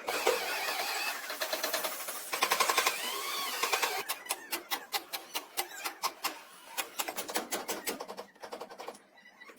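Rapid mechanical clicking and knocking, dense and noisy for the first few seconds, then separate sharp knocks that thin out and grow fainter toward the end.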